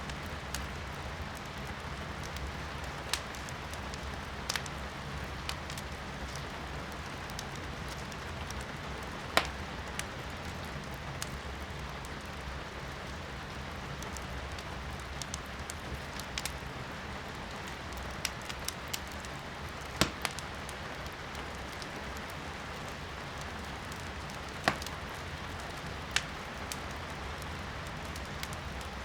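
Firewood burning in a fireplace, crackling and popping with scattered sharp snaps, several of them louder than the rest, over a steady hiss of rain heard from indoors.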